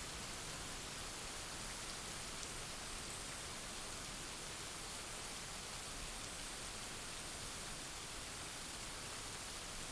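Steady rain falling: an even hiss with a few faint drop ticks, and no thunder.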